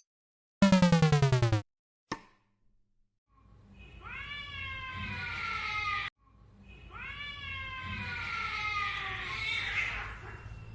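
A short falling cartoon sound effect, then a cat giving two long, drawn-out meows, each about three seconds.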